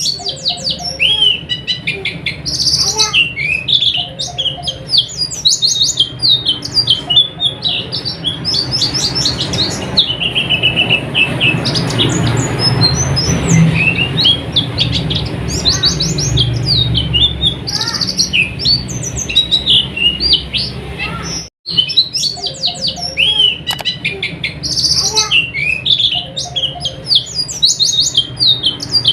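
White-eyes (pleci) singing a fast, high, twittering run of chirps over a steady low hum. The sound cuts out for an instant about two-thirds of the way through.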